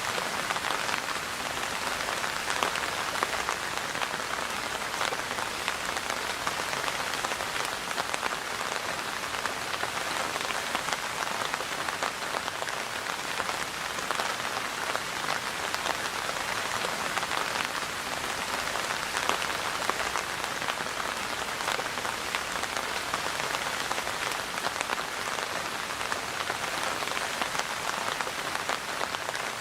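Steady rain falling on a surface, a dense patter of drops.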